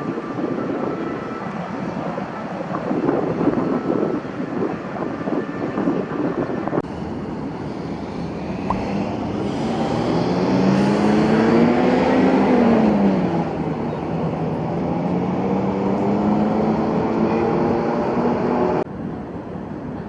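Motor vehicle engine in city traffic, its pitch rising and then falling midway through; the sound changes abruptly twice at cuts.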